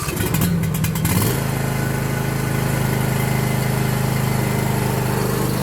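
John Deere E180 lawn tractor engine starting up: about a second of uneven sputtering, then settling into a steady run.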